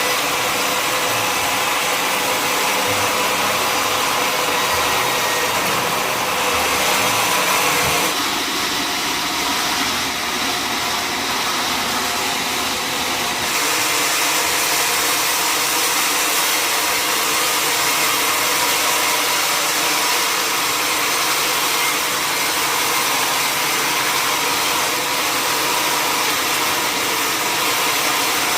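Sawmill machinery running steadily with a loud, dense hiss, its sound changing about eight seconds in and again about five seconds later.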